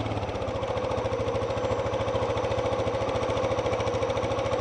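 ATV engine running steadily, with an even, rapid firing rhythm.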